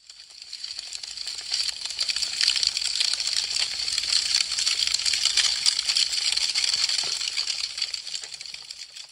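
Wood fire crackling: a dense stream of sharp pops and snaps from burning branches. It fades in from silence, swells in the middle and fades away near the end.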